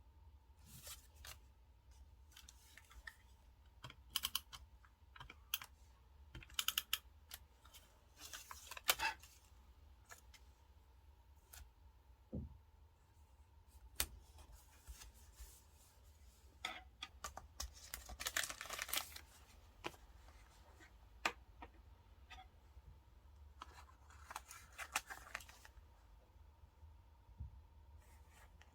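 Diary-decorating desk work: scattered light taps and clicks, with three longer rustles of paper or stickers being peeled or handled, one about a third of the way in, one past the middle and one near the end. A faint steady hum runs underneath.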